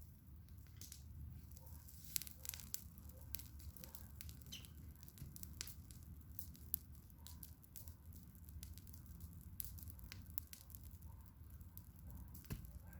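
Campfire crackling: scattered sharp pops and snaps over a low steady rumble.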